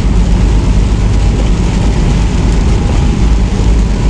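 Semi truck on the road: a steady low rumble of engine and road noise.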